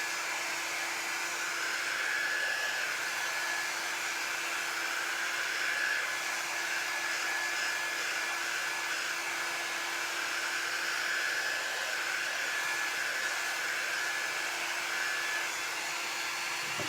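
A handheld electric dryer blowing steadily, a rush of air over a constant motor hum, drying freshly applied stencil paste on a craft sign.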